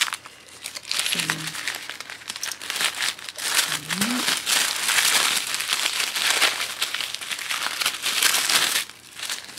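Wrapping paper crinkling and rustling as a boxed wallet is unwrapped by hand, a dense run of crackles, with a brief vocal sound about a second in and another about four seconds in.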